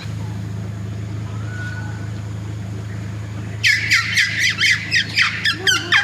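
A bird giving a rapid run of about ten loud, harsh calls, each falling in pitch, starting a little past halfway, over the steady low hum of an idling car.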